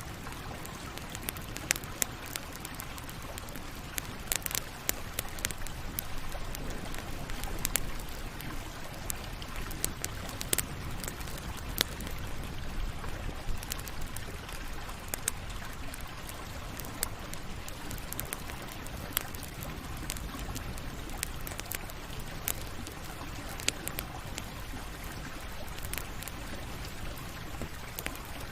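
Campfire burning with a steady hiss and frequent sharp, irregular crackles and pops of burning wood.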